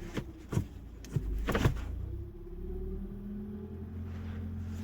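2025 Mazda CX-5's four-cylinder engine idling steadily, heard from inside the cabin, with a few short clicks and knocks in the first two seconds.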